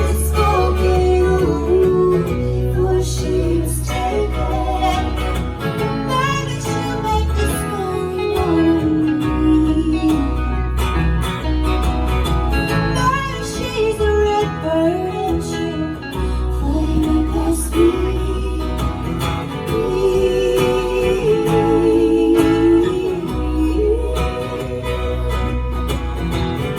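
A live band playing a song: guitar and a steady bass line under sung vocals.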